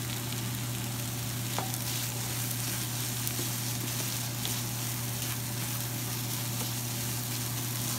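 Goat brain fry sizzling in a nonstick pan while a wooden spatula stirs and scrapes through it, with a few faint taps of the spatula. A steady low hum runs underneath.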